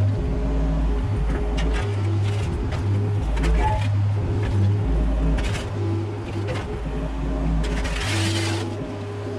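Mini excavator's diesel engine running under work, with scattered knocks and clatter from the digging. A short burst of hiss comes a little before the end.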